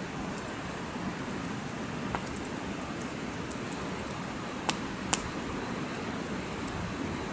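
Steady wind noise through the forest, with three sharp clicks about two, four and a half and five seconds in.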